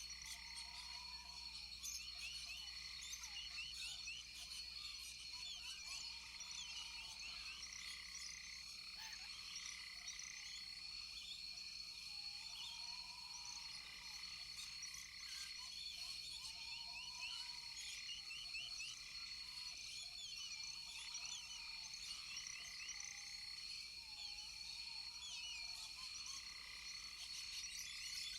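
Rainforest chorus of frogs and insects: a steady high drone with many small chirps over it, and a short arched call repeated about every two seconds.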